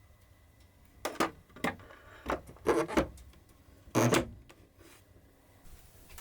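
A handful of short rustles and knocks, about five within three seconds, in a small room: things being handled or moved.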